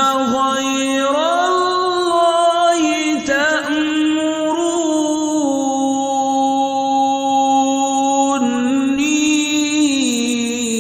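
A man's voice reciting the Quran in melodic tajweed style, drawing out one long phrase. He holds long notes that step slowly up and down in pitch, with a brief break about three seconds in.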